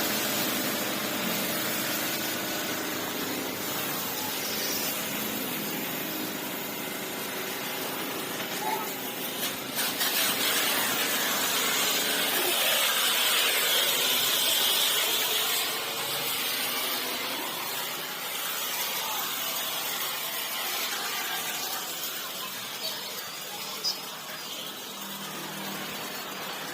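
Pressure washer spraying water onto a motorcycle: a steady hiss that grows louder for several seconds around the middle, with a steady machine hum under it in the first half.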